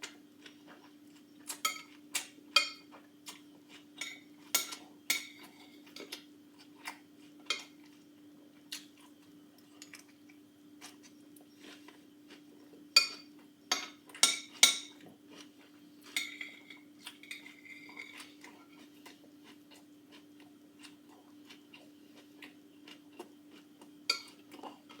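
A fork clinking and scraping against a dish while eating salad, in irregular bursts of sharp metallic clicks with a brief ring. The clicks bunch up a couple of seconds in, again around the middle, and once more near the end, over a steady low hum.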